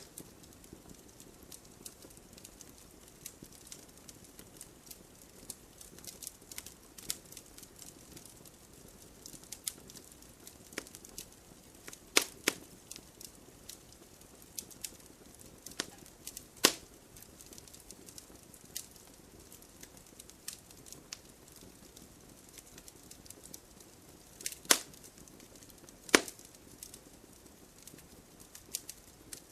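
Wood fire in a fireplace crackling: a soft steady hiss with frequent small irregular crackles and a few louder sharp pops.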